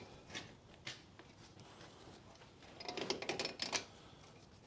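Metal brake caliper spring clip being worked into place by hand: a few light metallic clicks, then a quick cluster of clicks and rattles about three seconds in as the clip is pushed and levered over the caliper.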